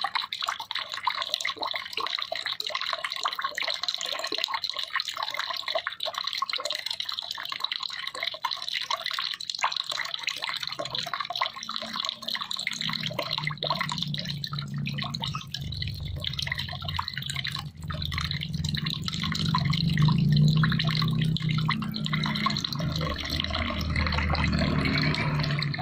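Water dripping and trickling in quick, dense drops, with a low rumble of heavier flowing water building in from about halfway.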